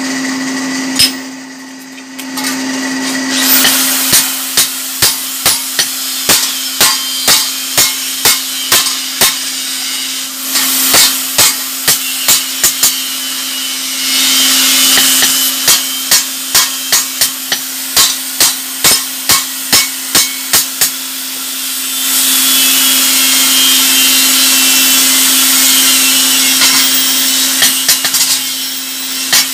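Blacksmith's hammer striking a hot chopper blade on the anvil, about two blows a second in several bouts, over the steady hum of the electric furnace blower. Between the bouts come stretches of a rasping hiss.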